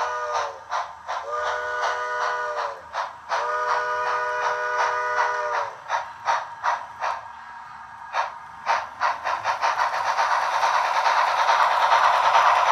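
Steam locomotive's chime whistle: the tail of one blast, then two more long blasts, each chord sagging in pitch as it cuts off. Irregular knocks follow, then a rushing hiss and rattle that builds steadily as the train gets under way.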